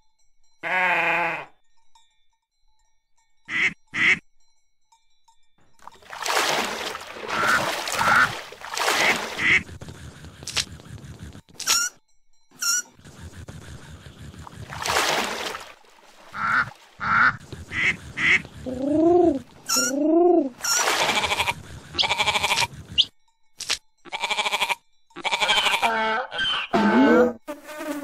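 A string of short farm-animal sound effects from a click-the-animal game, one call after another with brief gaps, among them duck quacks and other bird calls.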